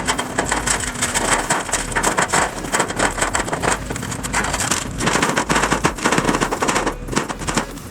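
Rapid, irregular clattering and rattling impacts from construction work, coming in denser runs, over a low steady hum.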